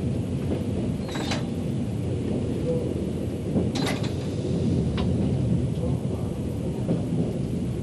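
Steady low rumble of a train running, heard from inside the driver's cab as it rolls through a station yard over points and curves. Three brief high screeches, about a second in, near the middle and a second later, are typical of wheel flanges squealing on curved track.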